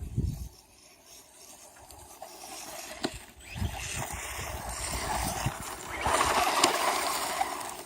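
HSP 94111 RC monster truck running through snow, its motor and tyres growing louder from about two seconds in and loudest near the end, struggling to turn on the snow. Low thumps on the microphone come at the start and again in the middle, with a sharp click about three seconds in.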